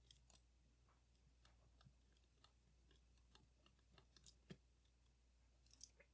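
Near silence broken by faint, irregular small clicks and taps of metal tools and small parts being handled while a Leica IIIF camera is taken apart. The loudest tap comes about two-thirds of the way in.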